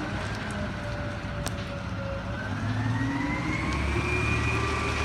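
Autocar ACX front-loader garbage truck's engine running, its pitch sinking over the first two seconds, then climbing again and holding higher.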